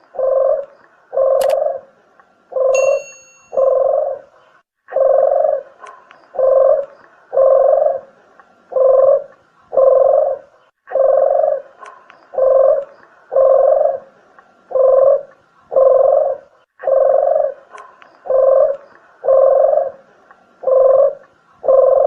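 Collared dove (deruk / puter geni) cooing as a lure call: a steady run of low coos, in phrases of about five, each phrase followed by a short pause roughly every six seconds.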